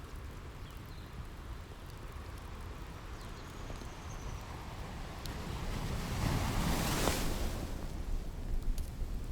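Ocean waves washing on the shore, one wave swelling to a broad hiss about seven seconds in and easing off, with a few faint pops from a crackling wood fire.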